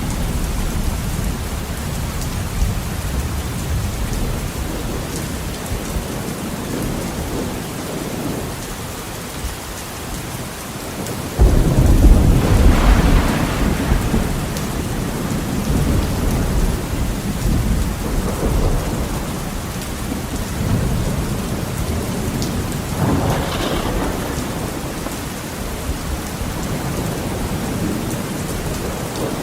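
Heavy rain pattering steadily on a window, with rolling thunder: a sudden loud thunderclap about eleven seconds in that rumbles on for several seconds, and a smaller swell of thunder later on.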